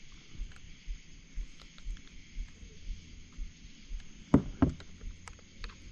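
Two heavy knocks on a kayak hull, about a quarter second apart, a little past halfway through. Under them a faint low thump repeats about twice a second.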